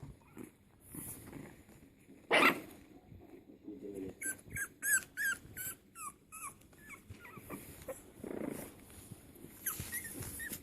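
Bulldog puppies whimpering and yipping in runs of short, high, bending cries, a few per second. A brief, louder noise comes about two seconds in.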